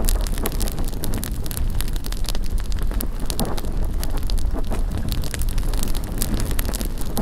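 Bonfire crackling with many quick sharp pops, over a low rumble of wind on the microphone.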